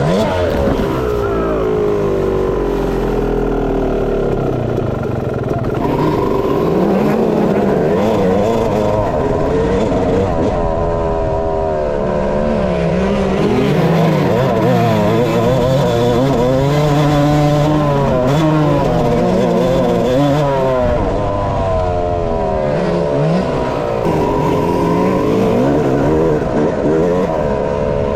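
Dirt bike engine being ridden hard, its pitch repeatedly climbing and dropping as the throttle is opened and shut and the gears change.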